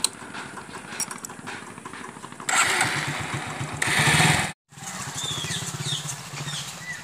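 Hero Honda motorcycle's single-cylinder engine starting about two and a half seconds in and revving, louder just before it breaks off. After the break a motorcycle engine runs steadily, with birds chirping.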